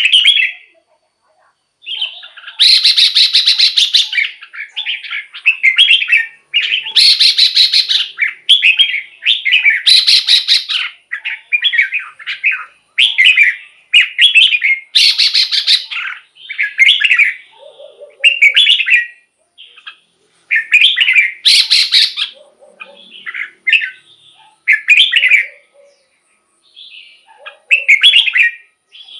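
Red-whiskered bulbul singing: a steady run of short, loud, warbling phrases, each about a second or less, with brief pauses between them and some harsher, rasping notes mixed in.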